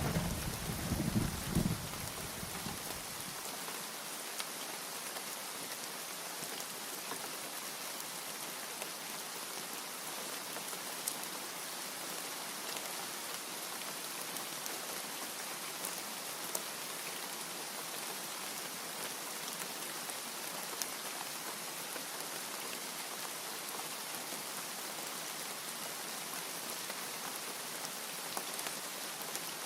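Steady rain falling, an even hiss with scattered sharper drop ticks. A low thunder rumble dies away over the first couple of seconds.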